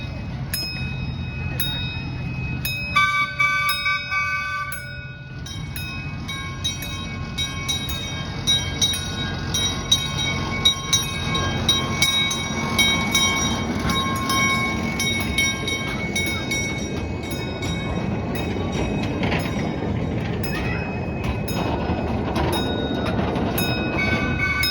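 Miniature ride-on train running past a railroad crossing, its wheels rumbling steadily on the track. A horn sounds for about two seconds a few seconds in, and short repeated strokes, like a crossing signal's bell, go on throughout.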